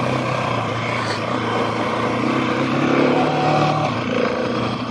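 Husqvarna 701 Supermoto's single-cylinder engine running under way on a dirt track, its pitch stepping up for a moment about three seconds in and dropping back, over a steady rush of wind noise.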